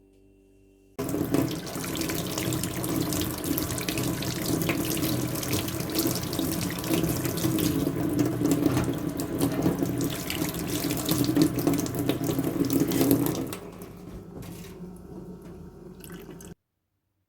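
Water running from a tap into a sink. It starts abruptly about a second in, eases to a lower flow near the end and then stops.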